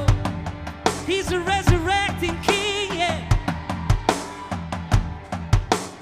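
Worship band music: a drum kit keeps a beat with bass drum and snare hits under a wavering melodic line.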